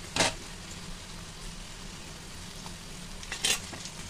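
Onions and masala frying in a steel kadhai with a steady sizzle as boiled, squeezed bitter gourd slices are pushed in from a steel plate. Two brief sharp sounds stand out, one just at the start and one near the end.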